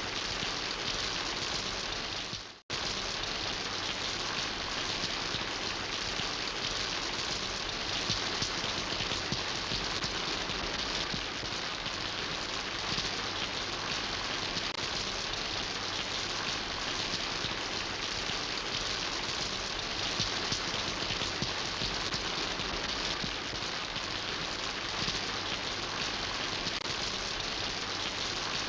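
Steady rain falling, an even hiss of many drops. About two and a half seconds in, it dips briefly to silence and then comes straight back.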